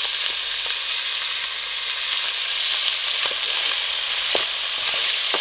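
Chicken pieces and whole mushrooms frying in hot olive oil in a pot: a steady sizzle, stirred with a wooden spoon that knocks lightly against the pan a few times.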